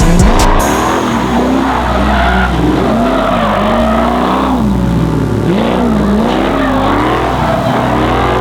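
Drift car engine revving up and down again and again through a slide, with tyres squealing.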